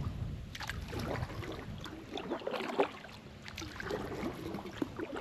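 Water splashing and dripping around a kayak on the move, with small irregular knocks and a sharper knock about halfway through.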